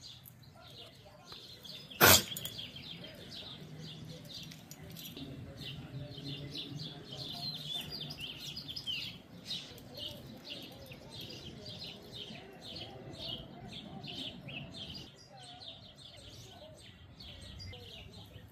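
Small birds chirping over and over in quick short notes, with one sharp click about two seconds in.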